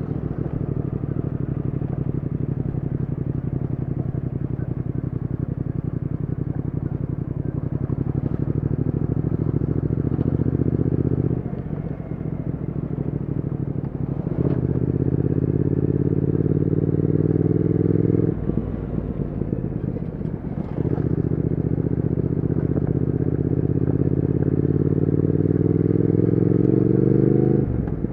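Triumph Speed Twin 1200's 1200 cc parallel-twin engine running under load while riding, its pitch climbing steadily in long pulls and dropping away three times, about 11, 18 and 28 seconds in, as the throttle is eased or a gear is changed.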